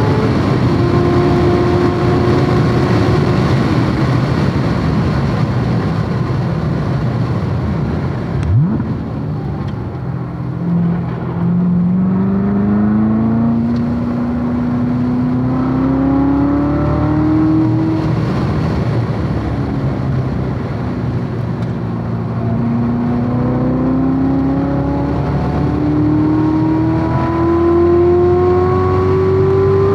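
Chevrolet Corvette C7 Z06's supercharged 6.2-litre V8 at speed on a race track, heard from on board with steady wind and tyre noise. A sharp click comes about eight seconds in. Then the engine pitch climbs through a long pull, drops away near the middle and climbs again toward the end.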